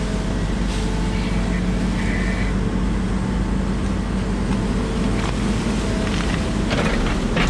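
Diesel engine of a Volvo 140 crawler excavator running steadily under work, with scattered knocks and cracks over it.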